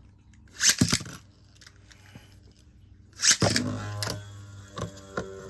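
Metal Beyblade tops knocking against each other in a stadium: a couple of sharp metallic clacks about a second in, then a louder clack about three seconds in followed by a steady hum.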